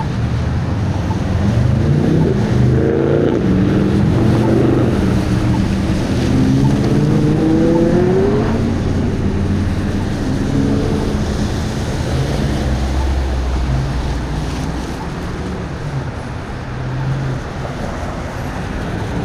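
Road traffic: a nearby car's engine speeding up, its pitch rising twice between about two and nine seconds in, over a steady rumble of traffic.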